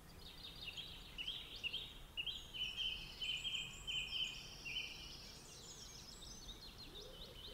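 Faint birdsong: small birds giving runs of short, high, repeated chirps, thinning out in the last couple of seconds, over a faint steady background.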